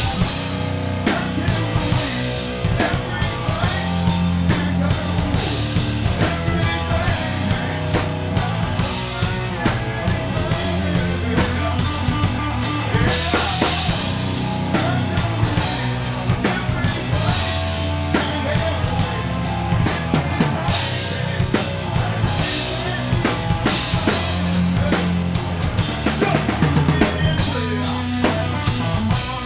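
Live rock band playing in a loud nu-grunge style: a drum kit drives a steady beat with bass drum and snare hits under sustained guitar and bass notes.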